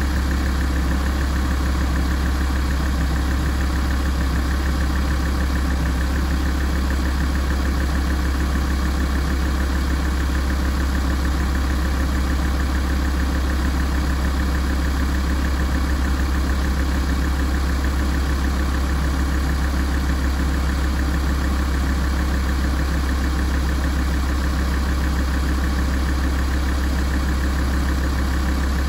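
Alfa Romeo 166 JTDm's 2.4-litre five-cylinder turbodiesel idling steadily while warming up, a constant deep hum that does not change.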